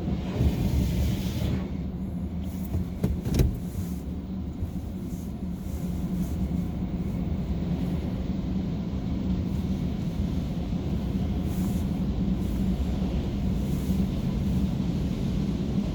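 Car engine idling, a steady low hum heard from inside the cabin, with a single sharp knock about three and a half seconds in.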